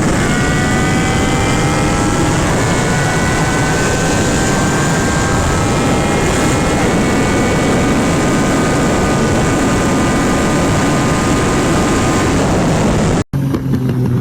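Yamaha MT-09's inline three-cylinder engine pulling at high speed, its pitch climbing slowly and dropping at upshifts at the start, about two and a half seconds in and about seven seconds in, under heavy wind rush on the microphone. Near the end the sound cuts off abruptly and jumps to a lower engine note.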